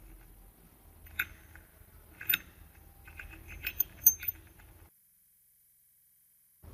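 Metal parts of a manual meat grinder clinking against each other: a handful of sharp, separate clinks over about four seconds. The sound then cuts off abruptly to dead silence.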